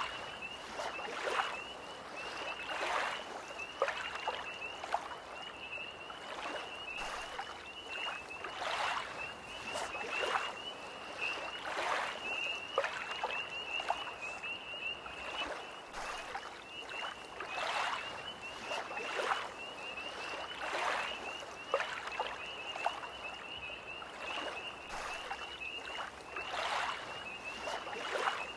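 Small lake waves lapping in irregular splashes every second or two, under a continuous high-pitched trill from tree frogs.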